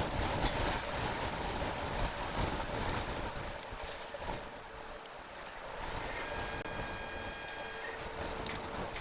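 Storm wind rushing over the microphone, with a faint steady hum joining partway through. A brief high-pitched tone sounds about six seconds in and lasts a second and a half.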